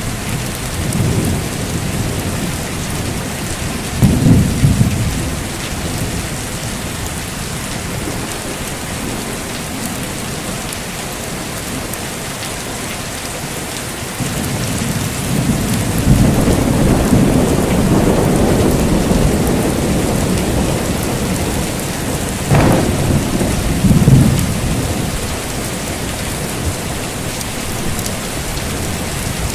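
Steady heavy rain with rolling thunder. A short rumble comes about four seconds in, then a long rumble builds from about halfway. A sharp crack of thunder follows near the end, with one more rumble after it.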